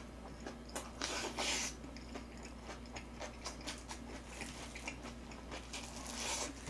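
Close-up eating sounds of a person chewing a mouthful of Chapagetti black-bean noodles and cabbage kimchi: wet chewing and lip smacking, with short hissy slurps about a second in and again near the end.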